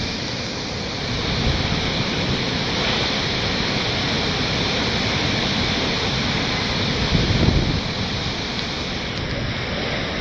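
Hurricane wind and rain: a steady rushing noise, swelling in a stronger gust about seven seconds in.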